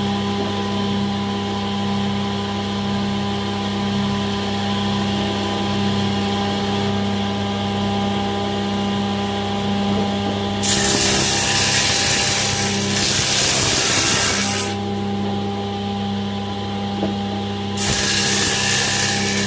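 An electric woodworking machine running with a steady hum. It cuts into wood twice, for about four seconds from about ten seconds in and again near the end, each time with a loud rushing hiss.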